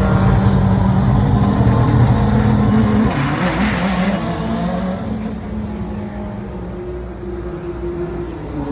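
Four-rotor Mazda rotary race car engine running steadily and loud, with a brief change in pitch about three seconds in, after which it runs on somewhat quieter.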